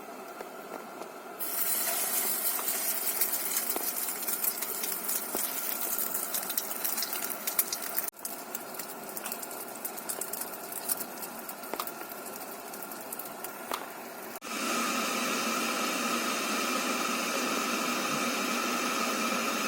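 Heavy rain falling on a tent: a dense, steady hiss full of tiny drop taps. It comes in several spliced shots that cut in and out sharply.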